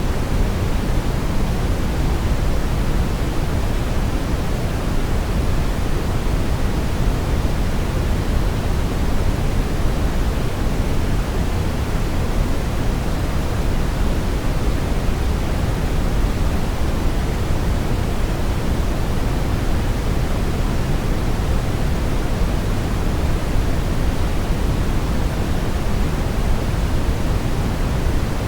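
Steady brown noise: an even, unchanging hiss weighted heavily toward the low end, like a deep rumble with softer hiss above it.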